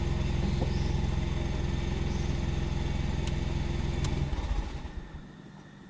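MINI car engine idling steadily, then switched off about four seconds in and quickly dying away, with two sharp clicks just before it stops.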